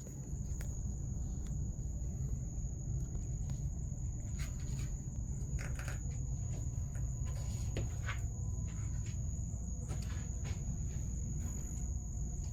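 A pet cricket chirping in one continuous high-pitched trill, over a steady low rumble and a few faint clicks.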